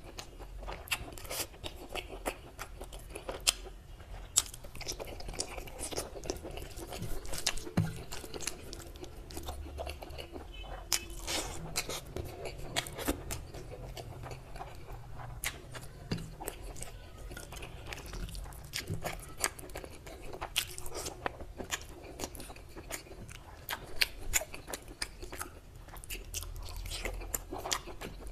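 Close-miked eating of rice and mutton curry by hand: steady chewing with many sharp wet mouth clicks and crunches, along with fingers working rice and gravy on the plate.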